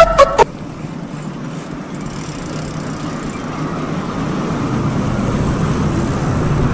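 A burst of music cuts off about half a second in. It gives way to a steady vehicle noise that slowly grows louder, with a low hum coming in near the end.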